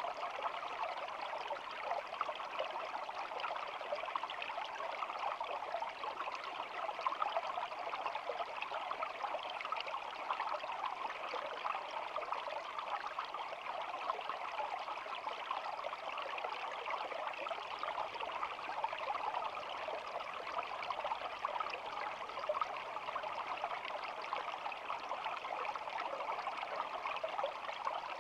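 A small stream flowing, a steady babbling rush of water that does not change.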